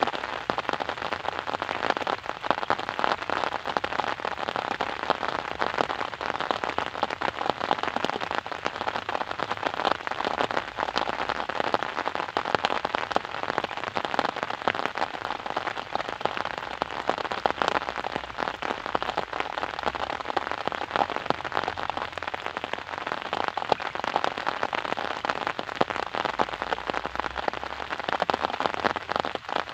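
Steady rain: a dense, even patter of many drops striking a surface, with sharp individual drop ticks over a continuous hiss.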